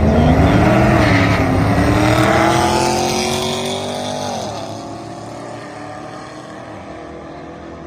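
Engine at full throttle with its pitch climbing steadily, then dropping sharply about four and a half seconds in as the throttle is lifted, running on more quietly after that.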